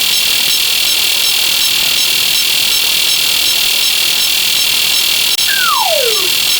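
A slide whistle sound effect gliding down once in pitch near the end, over a steady, loud high-pitched hiss.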